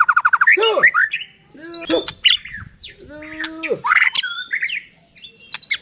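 White-rumped shama (murai batu) singing loudly in an agitated, aggressive state. It opens with a fast trill of repeated notes, then moves through varied whistles, slurred notes and harsh squawk-like calls, with a short pause near the end.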